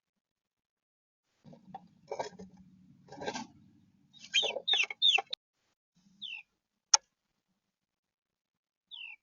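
Birds in a nest: rustling and scuffling, then a quick run of three or four short, loud downward chirps a little after four seconds in. Single falling chirps follow about six seconds in and near the end, with one sharp tick just before the seventh second.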